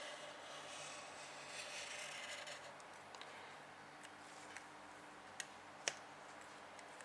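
Faint scratching of a pen writing, for the first two and a half seconds, then a few light ticks and two sharper clicks about five and six seconds in.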